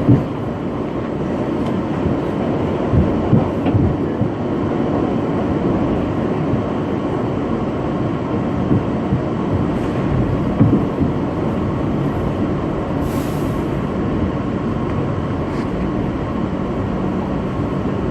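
Bombardier R62A subway car running, a steady rumble heard from inside the car, with a few clunks about three seconds in and again around ten seconds.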